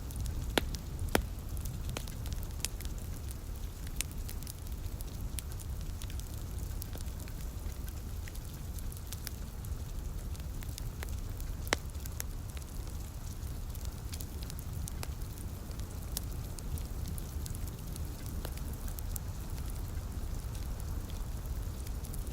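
Wood fire crackling with sharp pops, the loudest about a second in and near the middle, over a steady low rumble and a light hiss of rain.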